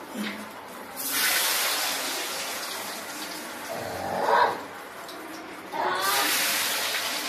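Batter-coated dough rolls dropped into hot oil: a sudden loud sizzle about a second in that slowly dies down, then a second one near the end. A short rising cry sounds between them.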